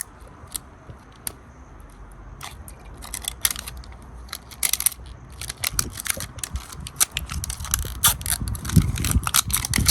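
Plastic wrapping crinkling and crackling as a toy capsule is torn open. Scattered clicks at first, growing thicker and louder over the last few seconds.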